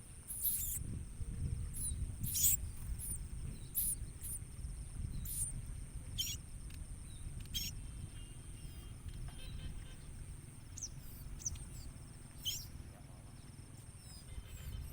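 Small ciblek koya (prinia) birds giving short, high, thin chirps, each a quick downward sweep, repeated at irregular intervals and thinning out in the second half. Under them run a steady high-pitched whine and a low rumble.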